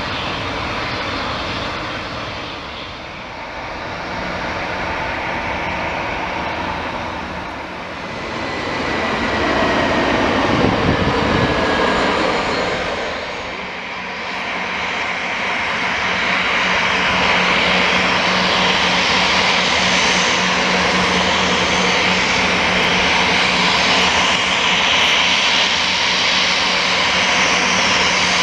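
Twin Garrett TPE331 turboprop engines of a Mitsubishi MU-2B-36A running. The sound grows louder partway through and then holds steady, with a constant low drone underneath.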